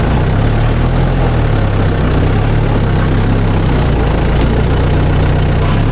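Loud diesel engine of a farm machine idling steadily.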